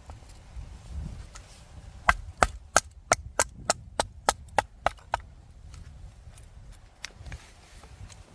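Chopping on wood: about a dozen quick, sharp knocks of a blade striking wood, roughly four a second, lasting about three seconds.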